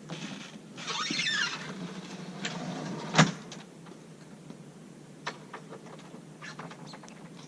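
Yakima Showdown kayak loader's extension arm tipped up and slid back into the roof rack: a squealing metal scrape lasting about a second, then one sharp clunk about three seconds in as it seats, followed by light clicks and rattles.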